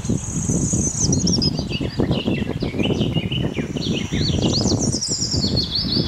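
Songbirds chirping and trilling, many quick high calls overlapping and growing busier from about a second in, over a steady low rumble.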